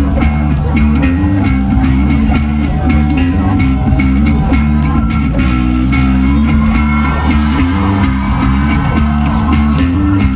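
Live rock band playing an instrumental passage: electric guitar, bass and drum kit, loud and steady, with a driving bass line under regular drum hits.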